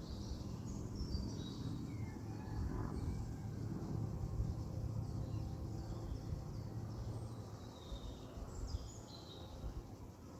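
Songbirds singing short phrases of quick, high chirps that step downward in pitch: one phrase near the start and another about eight seconds in, over a steady low rumble of outdoor background noise.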